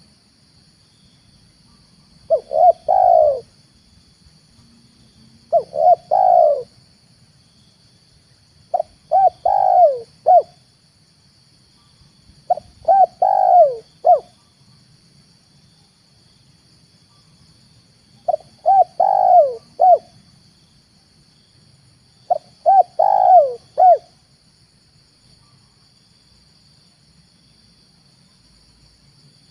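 Spotted dove (tekukur) cooing in six short phrases of several coos each, a few seconds apart, the last one near the end of the third quarter; a lure call for doves. A faint steady high hiss runs underneath.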